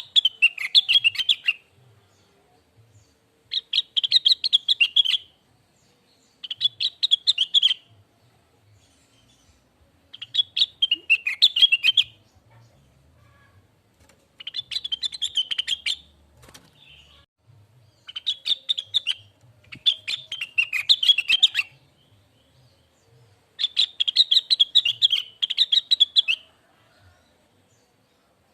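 Cucak wilis leafbird singing: about eight separate phrases of rapid, sweet twittering chirps, each one to three seconds long, with short pauses between them.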